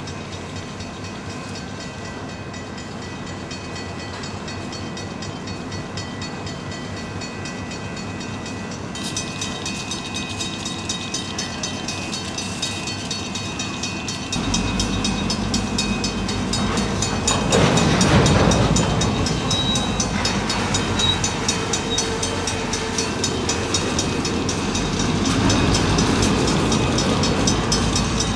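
Diesel freight train working in a rail yard: locomotive engine running steadily, growing louder about halfway through and loudest a few seconds later, as if moving closer, with a fine rapid ticking of rolling cars.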